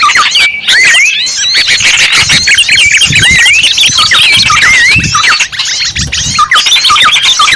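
Loud, dense chorus of many small birds chirping and twittering over one another in quick rising and falling calls: a bird-luring (pikat) recording for small birds.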